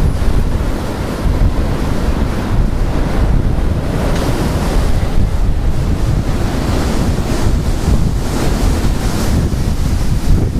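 Very strong gusting wind, given as 60 to 70 mph, blowing across the microphone: a deep rumbling buffet under a rushing noise that swells and eases with the gusts.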